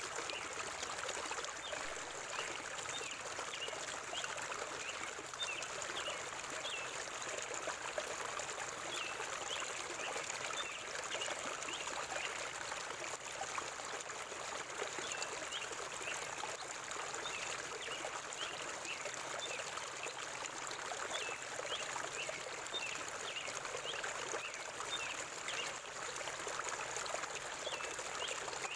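Forest river water flowing steadily, a continuous rushing and trickling, with many short, high bird chirps scattered throughout.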